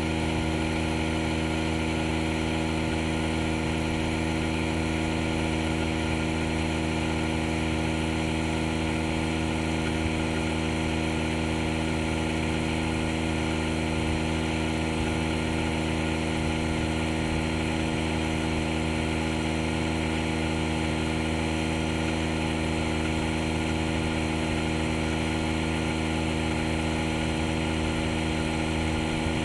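DeWalt DCC020I cordless air inflator's compressor running steadily with an even hum and hiss as it pumps up a flat car tire toward its 30 psi set point.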